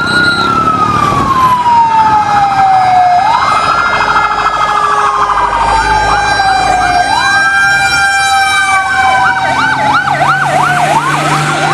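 Fire engine siren wailing in slow rising-and-falling sweeps, about one every four seconds. A faster yelping siren joins for the last few seconds. It starts and cuts off abruptly.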